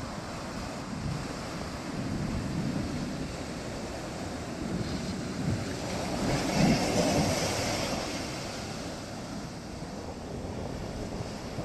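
Sea waves breaking and washing in, a continuous rush that swells to a louder crash about six to seven seconds in, with wind buffeting the microphone.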